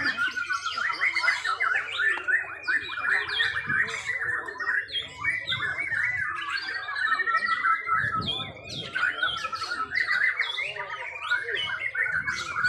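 Several caged white-rumped shamas (murai batu) singing at once, an unbroken tangle of quick chirps, whistles and warbling trills, over a low murmur of crowd voices.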